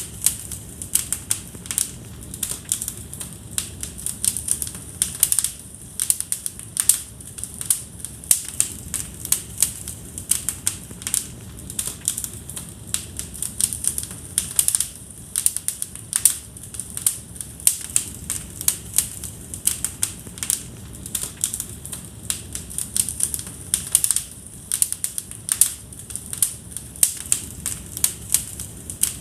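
Wood fire in a fireplace crackling, with a dense run of irregular sharp pops and snaps over a low steady rumble of the flames.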